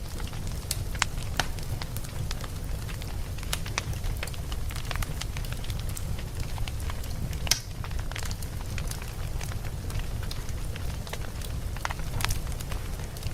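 Log fire burning: a steady low rumble with irregular sharp crackles and pops, the loudest pop about seven and a half seconds in.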